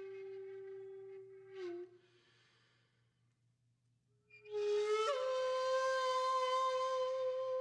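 Background music: a solo flute holds a long note that bends downward and breaks off after about a second and a half. After a pause of about two and a half seconds, a higher note slides in and is held.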